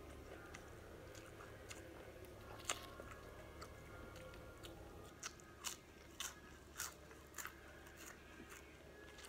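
A person biting and chewing crispy batter-fried jirjir (arugula) leaves. There is one sharp crunch a few seconds in, then a quick run of about six crunches in the second half.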